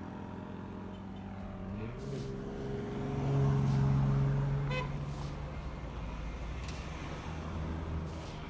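A motor vehicle passing on the road: its engine pitch rises about two seconds in, holds steady, and is loudest a little before the middle, then fades into steady road noise.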